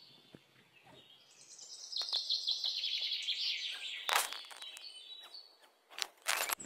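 A bird singing a rapid trill of high chirps that falls in pitch, with a few sharp knocks about four seconds in and again near the end.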